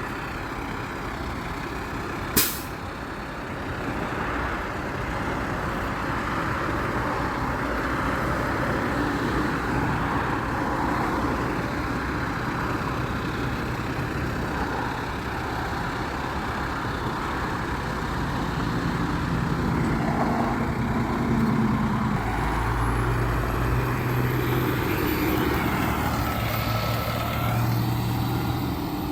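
Garbage truck's engine running, with a sharp bang about two seconds in. The engine note grows louder and shifts pitch over the last several seconds.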